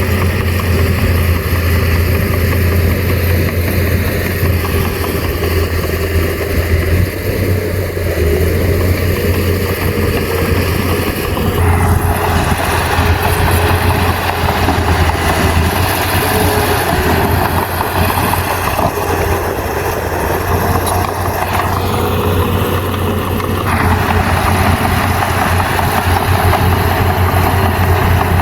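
Heavy diesel engine of earthmoving machinery running steadily under a coarse mechanical clatter. The upper part of the sound grows louder about twelve seconds in and changes again near the end.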